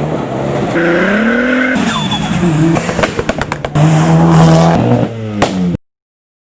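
Modified car engines revving and accelerating hard, with a rapid run of sharp exhaust pops and cracks about three seconds in and another near the end. The sound cuts off abruptly.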